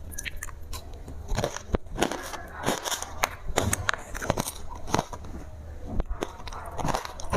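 Ice being bitten and crunched close to the microphone: a quick, irregular run of sharp cracks and crunches, several a second.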